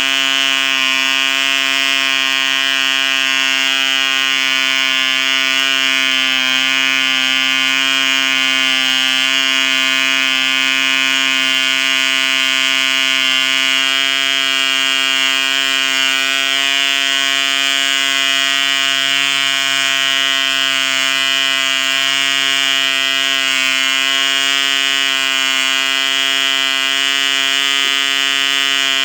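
1959 ED Mk2 1cc model diesel engine running steadily at high speed, turning an 8 x 4 propeller: a loud, even, high-pitched buzz that holds one speed throughout.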